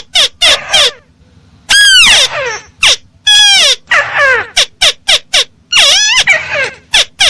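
Recorded lure call of a tikusan (crake), played loud. It repeats groups of harsh notes that rise and fall, with a longer downward-sweeping note about two seconds in.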